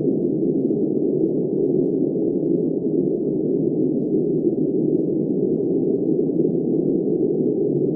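Steady, muffled wind noise: an even, low rushing sound with no gusts, rises or other sounds in it.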